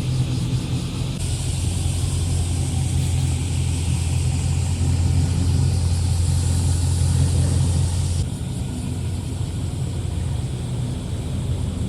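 Car exhaust running steadily at low revs, a deep, even engine note as cars roll in slowly. The sound changes abruptly about a second in and again about eight seconds in, when the deepest part of the note drops away.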